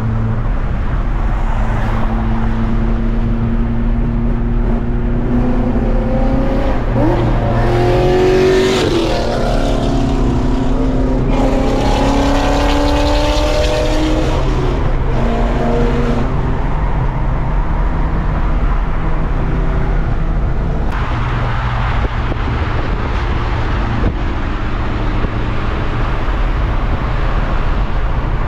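Car engines running steadily, with engine notes rising and falling twice between about five and sixteen seconds in as cars accelerate.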